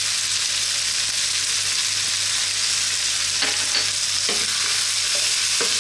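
Sweet potato, onion and kidney beans sizzling steadily in sunflower oil in a frying pan over medium heat, with a few light clicks.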